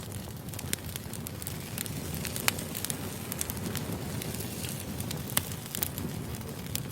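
Firewood burning: a steady low rush with irregular sharp crackles and pops. The loudest pops come about two and a half seconds in and again a little after five seconds.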